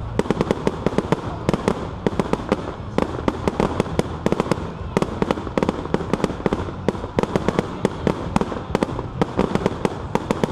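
Rapid, irregular crackling pops, many a second, going on without a break.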